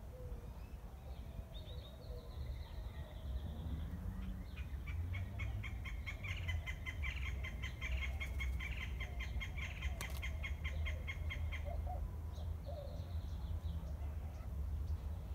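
Birds calling in the open: a few short high calls, then a long rapid chattering run of quick repeated notes lasting several seconds through the middle, then more short calls near the end. A steady low rumble lies underneath, and a single sharp click comes about ten seconds in.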